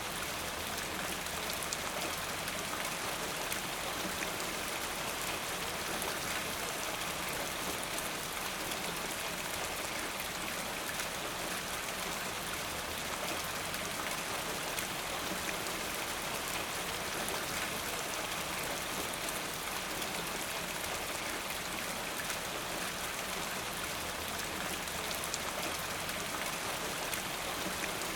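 Steady rain, a dense hiss of falling water with many small drop ticks.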